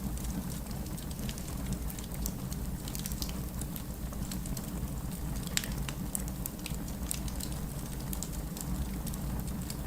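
Wood fire crackling with frequent small, sharp pops, one louder pop about halfway through, over a steady low rumble of distant rain.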